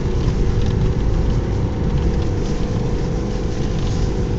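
Subaru car climbing a snowy mountain road, heard from inside the cabin: a steady low drone of engine and tyres.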